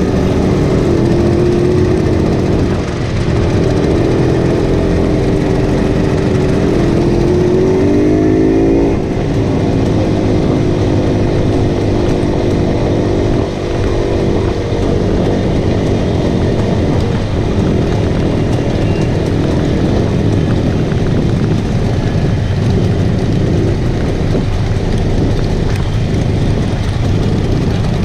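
Classic small motorcycle engine running under way, its pitch climbing for a couple of seconds about seven seconds in, then dropping at a gear change, with steady riding noise throughout.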